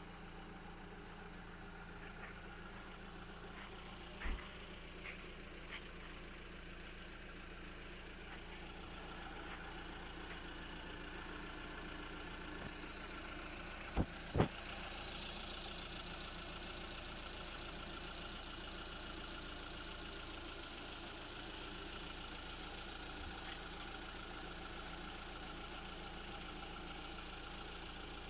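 Hyundai Santro engine idling steadily while it gets an engine decarbonising service. About halfway through a hiss sets in, and two sharp knocks come just after it.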